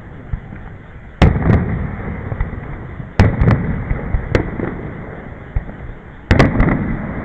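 Aerial fireworks shells bursting: three loud booms a few seconds apart, each followed by a few smaller cracks and a rolling rumble that dies away.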